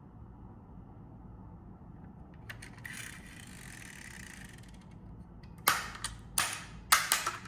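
Small hand-handled mechanism, most likely a diecast model car being worked: a soft rubbing sound for about two seconds, then a run of sharp clicks and snaps near the end.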